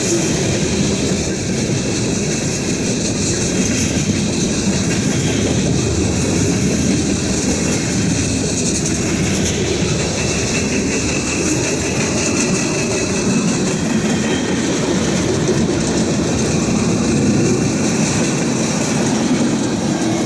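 Wagons of a long combined container and freight train rolling past, wheels clattering steadily over the rail joints, with wind buffeting the microphone.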